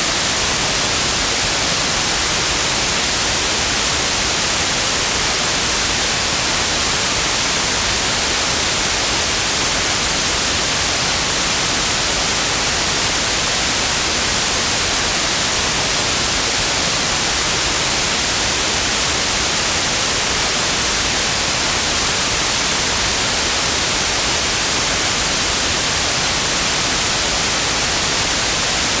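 Steady white noise: an even, unchanging hiss that is brightest in the high end.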